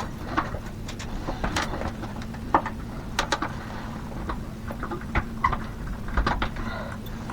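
Scattered light clicks and taps of hand work on electrical wiring hardware, irregular with a few sharper knocks, over a steady low hum.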